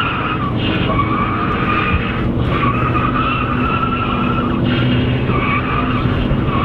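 A car drifting: tyres squealing in a long, wavering skid over a steady engine note. The squeal breaks briefly about two seconds in and again near five seconds.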